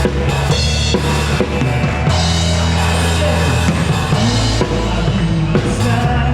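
Live band playing loudly, led by a drum kit with kick drum and snare hits over held low bass notes; no singing.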